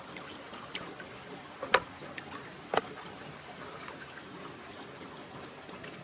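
Steady high-pitched insect chirring, like crickets, with a few sharp knocks: the loudest about two seconds in and another about a second later.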